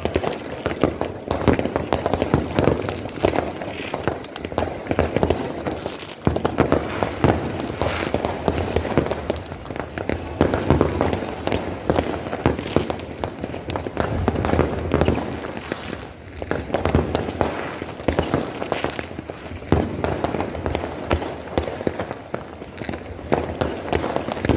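Fireworks and firecrackers going off without a break: a dense, rapid crackle of many overlapping bangs and pops.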